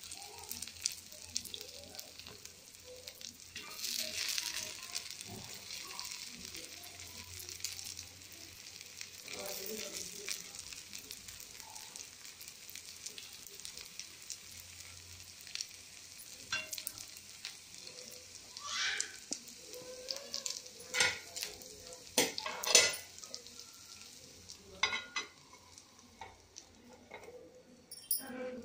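Gunta ponganalu batter balls frying in oil in a paniyaram pan, a steady sizzle, with scattered sharp clicks from the wooden stick turning them in the pan.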